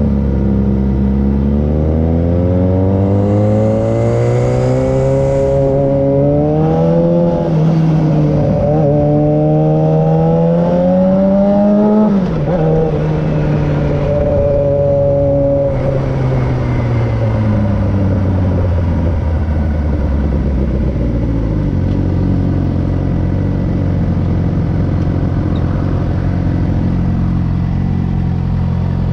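Suzuki GSX-R 600 inline-four with an M4 aftermarket exhaust accelerating through the gears, its pitch rising with short dips at each shift. It drops off about halfway through and winds down as the bike slows, then idles low and steady near the end.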